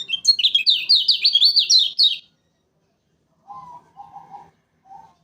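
Kecial kuning songbird singing a fast, loud burst of high, repeated down-slurred chirping notes, about five a second, lasting about two seconds. Quieter, lower cooing notes follow near the end.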